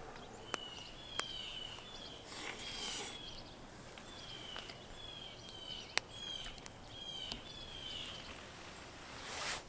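A bird calling over and over in short, falling high chirps, with a few sharp clicks and two brief hissy swells of noise.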